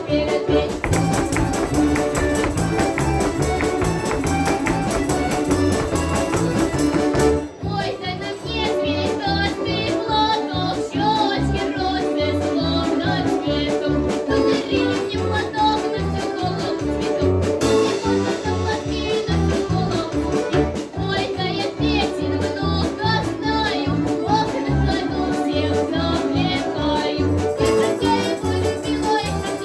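Russian folk instrument orchestra playing a lively piece, with a steady rhythmic bass beat and percussion, pausing briefly about seven seconds in before playing on.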